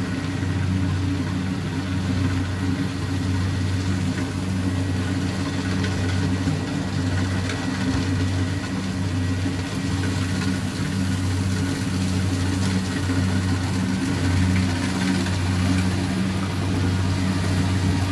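Rice combine harvester's engine running steadily as it works through the field.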